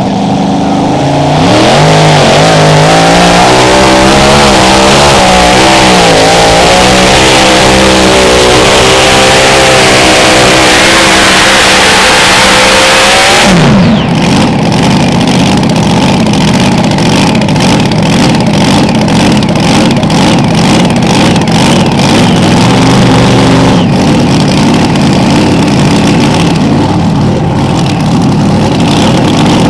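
Mini rod pulling tractor's engine at full throttle, its pitch wavering as it pulls the sled down the track. About fourteen seconds in the throttle is cut and the pitch falls away, leaving the engine running rough and lower for the rest of the time.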